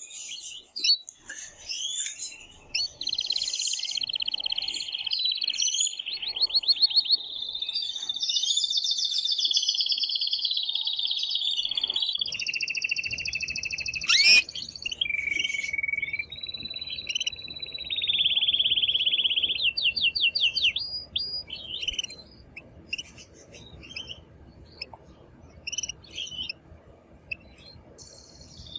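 Male domestic canary singing a loud, long song of rapid trills and held notes: the excited courtship song of a male in breeding condition. There is a sharp click about halfway through, and the song turns sparser near the end.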